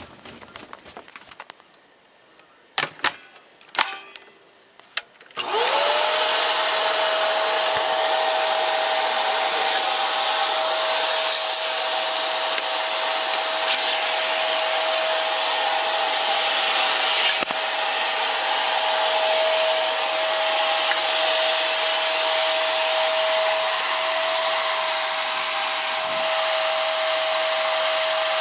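A Hoover Power Drive Pet bagless upright vacuum is switched on about five seconds in. Its motor spins up quickly to a steady whine and runs with a rushing of air. A few sharp clicks come just before it starts.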